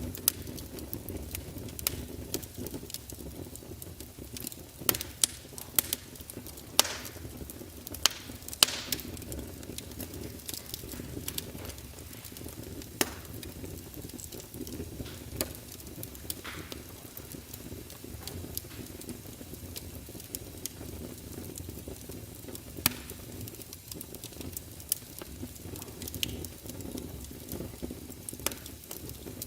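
Fire burning in a fireplace: a steady low rumble of flames with frequent irregular sharp crackles and pops, a burst of louder pops about a quarter of the way in.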